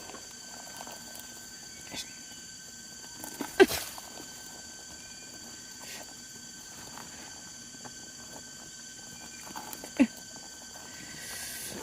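Three short, sharp clicks or snaps, the loudest about three and a half seconds in and another near the end, over a steady faint hiss with thin high-pitched tones throughout.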